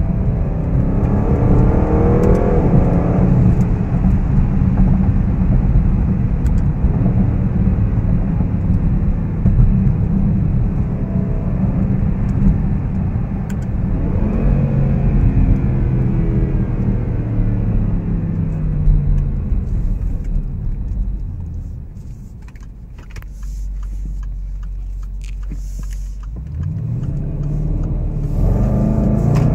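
Range Rover Sport's supercharged V8 heard from inside the cabin, accelerating hard with its pitch climbing in repeated sweeps. About two-thirds of the way through it eases off to a quieter steady low hum for a few seconds, then pulls hard again near the end.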